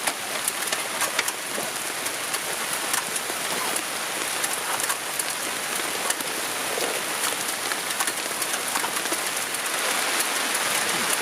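Steady rain falling, with many scattered sharp ticks of individual drops striking close by.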